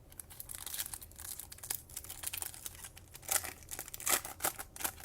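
Foil trading-card pack wrapper being torn open and crinkled by hand, a run of irregular crackles that grows louder in the second half.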